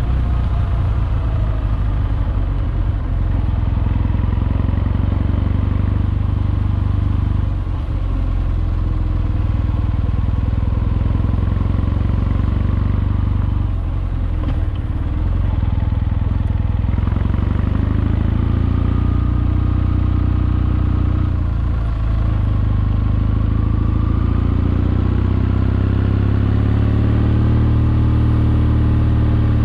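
Kawasaki W650's air-cooled parallel-twin engine running under way, its note easing off briefly a few times and climbing again as the bike accelerates near the end.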